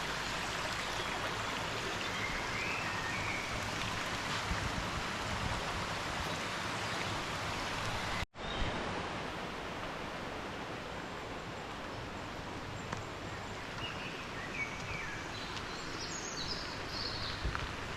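Steady rushing of a stream, with a few faint high chirps over it. About eight seconds in the sound cuts out for a moment and resumes slightly duller.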